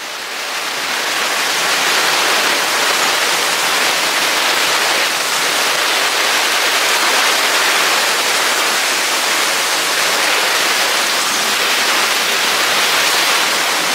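Heavy rain falling in a steady, even hiss during a winter storm, fading in over the first couple of seconds.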